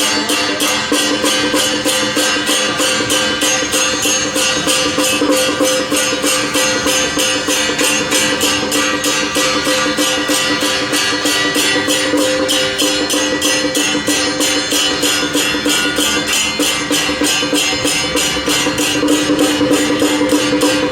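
Traditional Taiwanese temple-procession music: a quick, even beat of sharp metallic percussion strokes over steady held wind notes.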